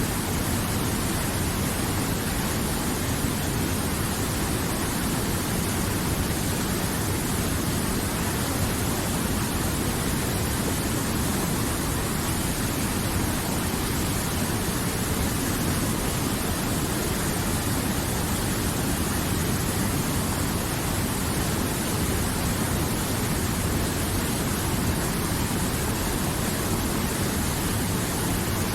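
River water flowing, a steady even noise with no breaks or changes.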